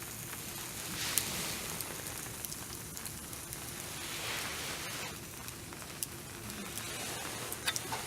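Fire crackling and hissing: a steady hiss that swells and fades, with scattered sharp pops and crackles.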